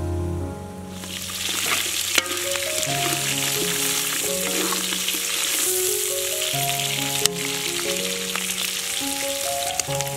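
Chicken pieces frying in a metal wok, a dense sizzle that starts about a second in, with a few sharp knocks of a spatula as it is stirred. A melody plays over it.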